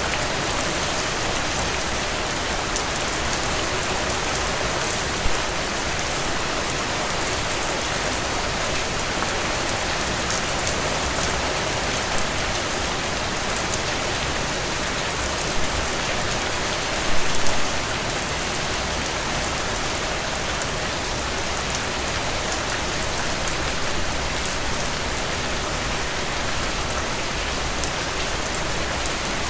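Steady rainfall with a dense patter of drops on surfaces, and a few slightly louder drips, most noticeably a short cluster a little past the middle.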